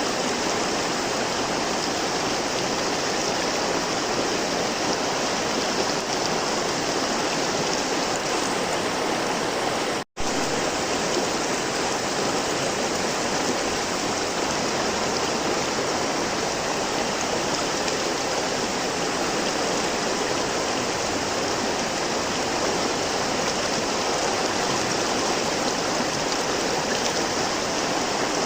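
River water flowing steadily, a dense even rush with no pitch or rhythm. The sound drops out for a split second about ten seconds in, then resumes unchanged.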